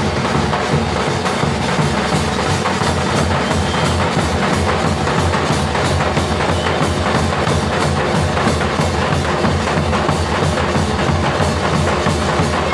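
Dhol drum being beaten in a steady, unbroken rhythm of deep bass strokes and sharper strikes.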